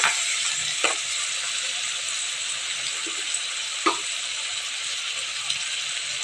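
Onions, tomatoes and green chillies frying in sesame oil in a clay pot: a steady sizzle, with a few sharp clicks of the steel ladle against the pot, about a second in and again near four seconds.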